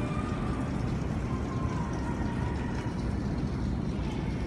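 Steady rain, an even rushing noise heavy in the low range, with a few faint thin tones drifting through.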